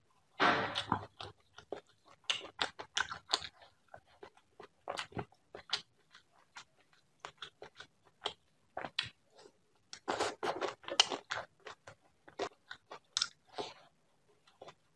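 Close-up eating sounds of a person chewing giant prawn curry with rice: wet chewing and irregular crunchy bites, coming in several clusters.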